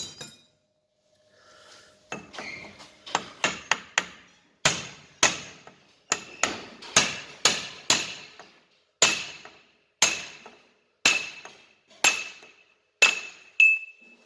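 Hammer blows on a chisel against a steel locknut of a Toyota Prius steering rack, knocking the locknut loose: a steady run of sharp metallic strikes, about two a second, each with a short ring. The blows start about two seconds in.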